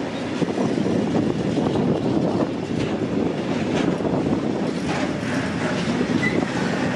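A train running on the track: a steady, loud rumble of wheels on rails with faint clicks here and there.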